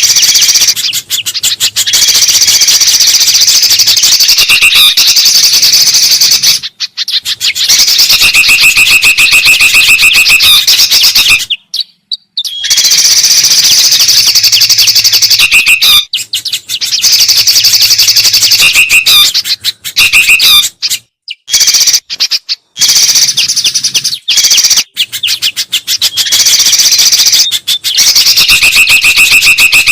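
A loud, dense chatter of songbird calls from a bird-lure recording of bulbuls and a spiderhunter, broken by a few brief pauses. The same stretch of calls comes round again, as in a looped lure track.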